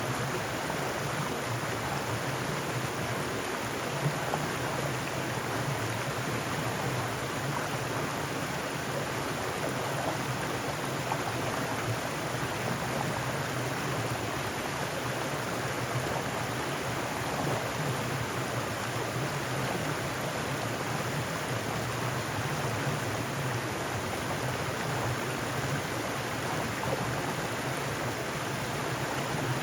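Mountain stream running over rocks: a steady rush of water, even throughout.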